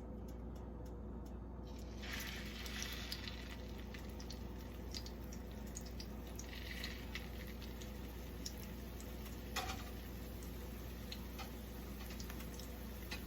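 Spring rolls frying in hot oil: sizzling that swells about two seconds in and again around seven seconds, as rolls go into the pan, with scattered crackles and pops.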